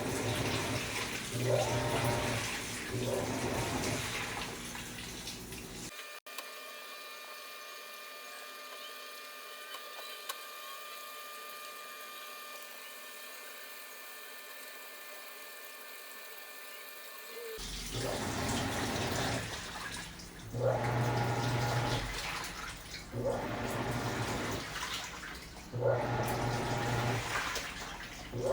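Panasonic 12 kg top-load washing machine agitating a load: the motor hums in repeated strokes of a second or two while water sloshes through the clothes. The agitation pauses for about twelve seconds in the middle, leaving only a faint steady whine, then the strokes start again.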